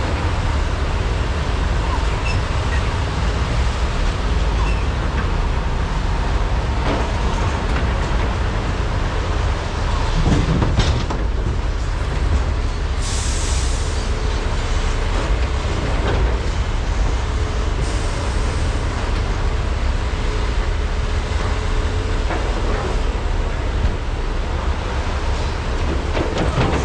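Large hydraulic excavators, a Komatsu PC395 and SANY SY485Hs, loading at a mine, their diesel engines running in a steady low rumble with a few knocks and clanks. A short hiss comes about thirteen seconds in.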